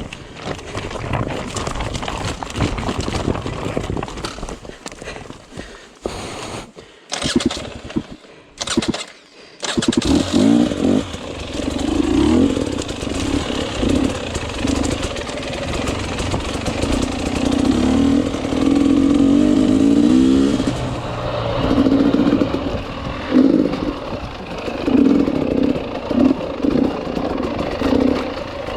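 Enduro motorcycle engine running on a race course. About a third of the way in the sound drops away briefly a few times, then the engine runs on with revs rising and falling again and again.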